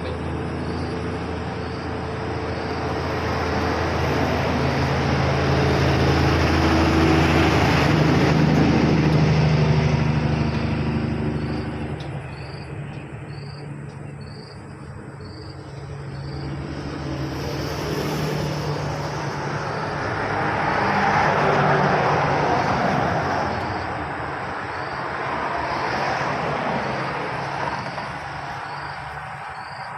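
Road vehicles passing close by. A heavy engine hum builds for the first ten seconds or so and fades, then tyre and engine noise from more vehicles swells and fades twice.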